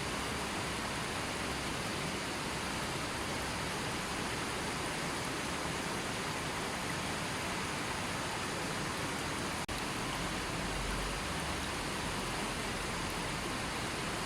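River water flowing, a steady even rushing, with a momentary dropout about ten seconds in.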